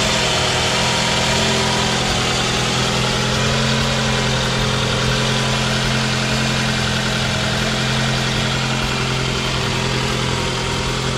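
2009 Toyota Camry engine idling steadily just after starting. It now starts on a newly replaced starter motor, and the no-start fault is cured.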